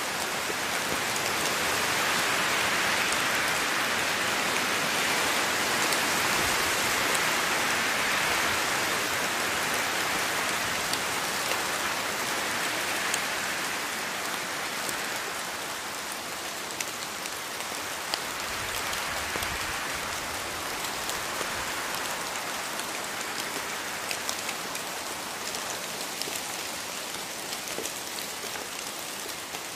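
Steady rain falling on foliage, a dense hiss with scattered individual drop ticks, easing slightly about halfway through.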